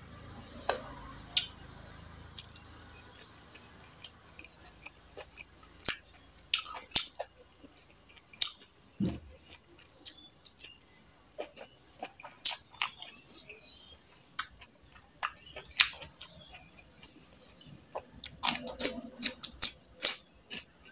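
Close-miked chewing and wet mouth smacks of a person eating curry and rice by hand, irregular short clicks throughout, with a quick run of smacks near the end.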